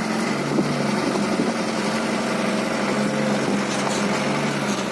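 Diesel dump truck engine running steadily at a low, even pitch.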